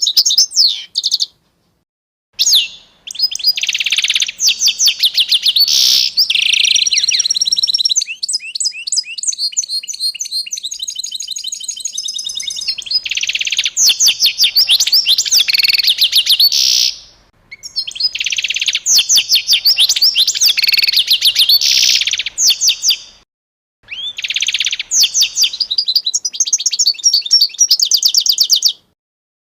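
A small songbird singing long, rapid trills of high chirps, the pattern changing every second or two, in several long phrases separated by brief silences.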